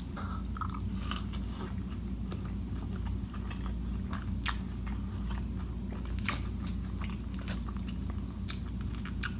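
A man chewing a sauced boneless chicken bite, with wet mouth sounds and sharp smacking clicks scattered through the chewing.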